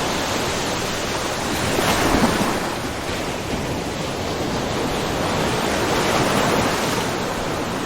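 Small ocean waves lightly splashing and washing on a rocky shore, in continuous surf noise with one louder wash about two seconds in and a gentler swell later.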